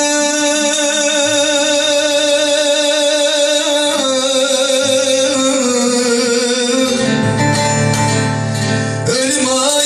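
A singer holding a long, wavering melismatic note of a Turkish uzun hava folk song, stepping down in pitch about four seconds in and again later, with bağlama and guitar accompanying.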